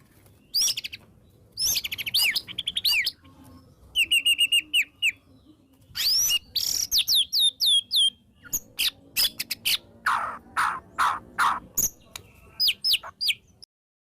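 White-rumped shama (murai batu) in full, agitated song: loud, varied whistled phrases of sharp quick notes, downward-slurred whistles and rapid trills, with short pauses between phrases. The song cuts off abruptly just before the end.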